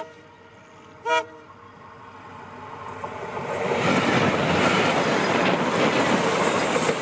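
Train horn sounding one short blast about a second in. Then the passenger train's running noise builds steadily and stays loud as the locomotive and coaches pass close by.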